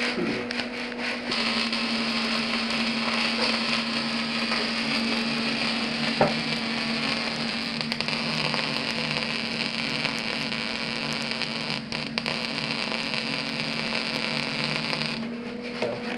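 MIG welder laying a bead: the arc's steady hiss starts about a second in and cuts off suddenly near the end, over the welding machine's constant hum.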